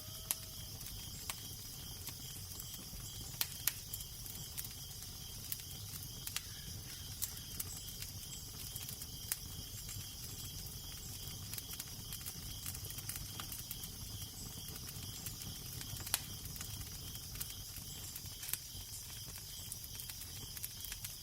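Wood fire crackling, with sharp scattered pops over a steady low rumble and hiss.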